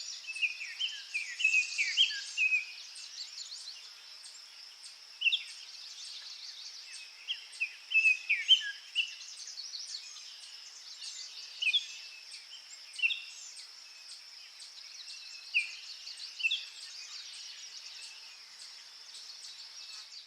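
Several wild birds singing, with short chirps and trills coming and going throughout over a steady high-pitched background.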